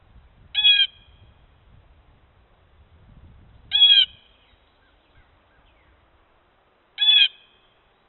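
A bird calls three times, each a short call about three seconds after the last.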